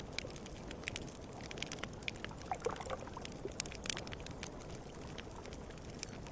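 Small campfire crackling, with sharp pops scattered throughout, over the gentle lapping and gurgling of small wake waves at a calm river's edge.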